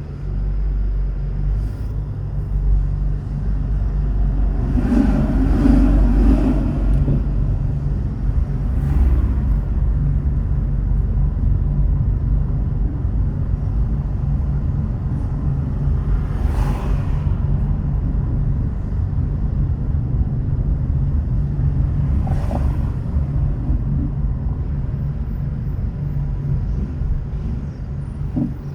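Steady low rumble of a car driving, with road and engine noise. Four brief swishes rise over it, the loudest about five seconds in, typical of other vehicles passing.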